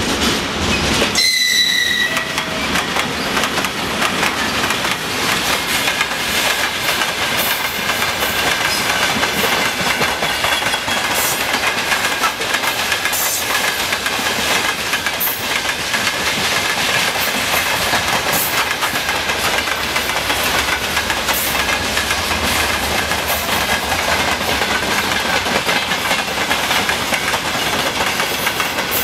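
Freight train rolling past behind a 3ES4K electric locomotive, a steady loud clatter of wagon wheels over rail joints. A brief high-pitched tone sounds about a second in as the locomotive passes, and a faint high wheel squeal runs under the clatter.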